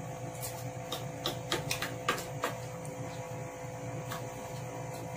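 Mouth sounds of eating Samyang spicy noodles: short wet smacks and clicks of chewing, bunched in the first two and a half seconds with one more about four seconds in, over a steady electrical hum.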